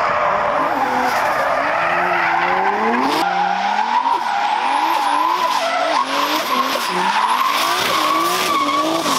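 Drift car engine revving hard, its pitch rising and falling again and again, over a continuous tyre squeal as the car slides. The sound cuts abruptly about three seconds in to another similar drift run.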